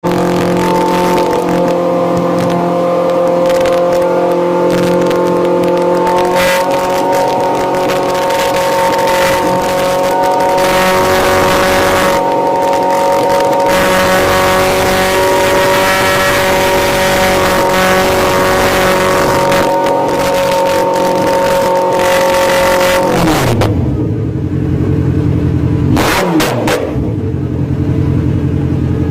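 Motorcycle engine running through a titanium exhaust, held at high revs for most of the time with the pitch stepping up slightly early on. About 23 seconds in the revs drop to idle, with one quick blip of the throttle a few seconds later.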